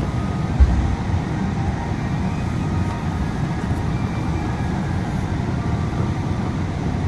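Inside a moving Yui Rail (Okinawa Urban Monorail) car: the steady low rumble of the rubber-tyred monorail running on its beam, mixed with air-conditioning noise, with a single thump about half a second in.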